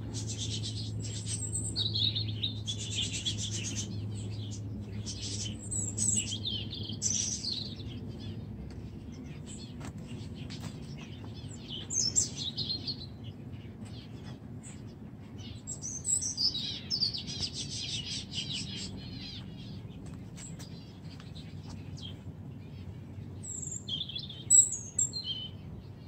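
Small birds chirping and twittering in repeated bursts. A low steady hum underneath fades away over the first several seconds.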